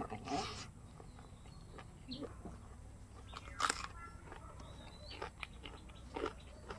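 Close-miked eating sounds: chewing and wet lip smacks on a mouthful of rice and chicken innards eaten by hand, with a sharp smack about halfway through. A few brief bird chirps sound in the background.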